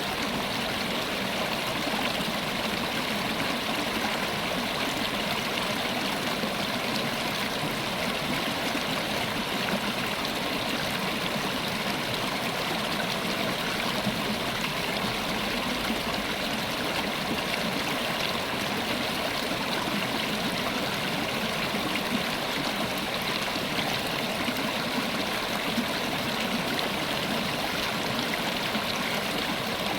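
A river running steadily over stones, with a constant rushing and fine splashing and gurgling throughout.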